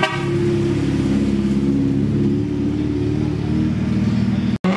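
A Honda Civic's four-cylinder engine running at low, steady revs as the car rolls slowly past. The sound cuts out for an instant near the end.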